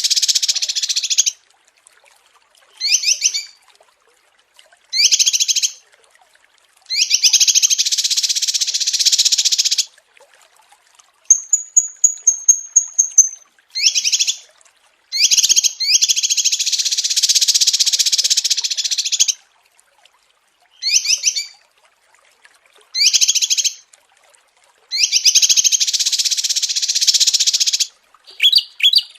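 Small songbirds singing in a repeating pattern of high, dense trills of about three seconds each, alternating with short quick chirp phrases. Around twelve seconds in there is one thin, high, steady note that pulses rapidly.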